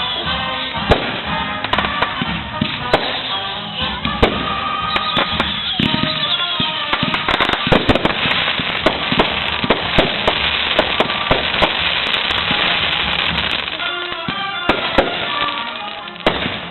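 Fireworks display: repeated sharp bangs of shells bursting, thickening into dense crackling through the middle, with music playing underneath.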